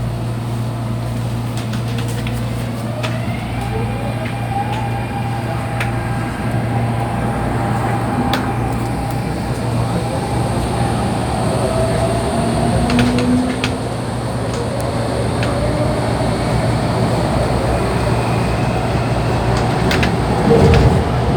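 MTR Tung Chung line CAF electric train accelerating, heard from inside the carriage: the traction motors' whine rises in pitch over the first few seconds and then holds, over a steady low hum and a growing rumble of wheels on rail with scattered clicks.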